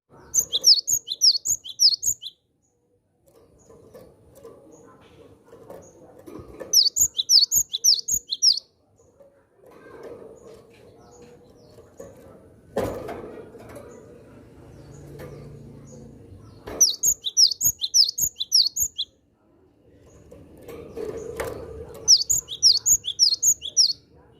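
Cinereous tit (gelatik batu) singing in four bursts of about two seconds each. Each burst is a fast run of high, sharp repeated notes. Between the bursts there is low background noise and one sharp knock about halfway through.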